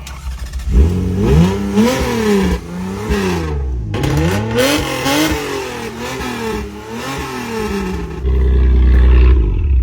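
1999 Toyota Camry engine being started when it does not start easily: for several seconds it runs unevenly, its revs rising and falling over and over, then it holds a steady louder drone from about eight seconds in.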